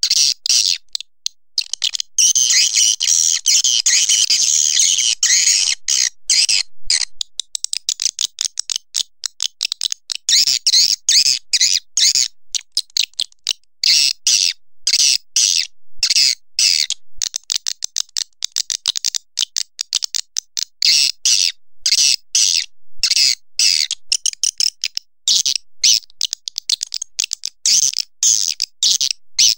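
Swiftlet calls: dense, rapid clicking chirps, high-pitched, in stretches broken by brief pauses. This is the kind of recording played to lure swiftlets into nesting houses.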